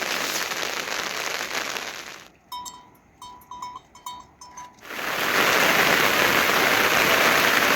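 Heavy rain falling in a steady hiss. It drops away for a couple of seconds, leaving about six short, high, ringing notes, then comes back louder and denser.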